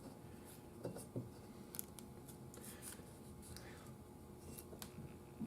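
Faint scattered clicks and rustles of hands handling a paper dial strip and small radio parts.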